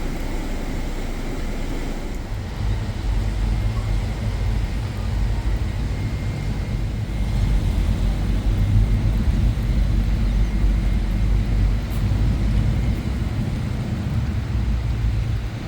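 A car engine rumbling, getting louder about two seconds in, loudest around the middle, then falling away near the end.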